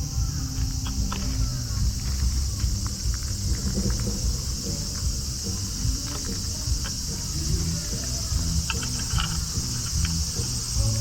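A steady, high-pitched chorus of insects without a break, over a low rumble, with scattered short chirps and clicks, most of them about nine seconds in.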